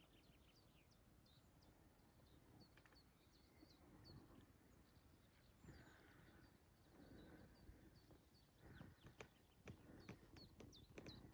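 Near silence with faint, scattered bird chirps, and a few faint clicks near the end.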